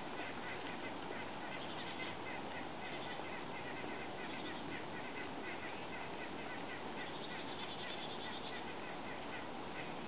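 Birds calling over a steady background hiss: many short high notes repeat throughout, with busier bursts about two seconds in and again near the end.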